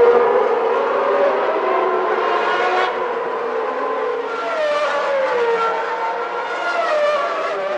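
Several 1991 Formula One cars' engines running at high revs together, their overlapping notes rising and falling as the cars pass, with one note dropping in pitch about five seconds in.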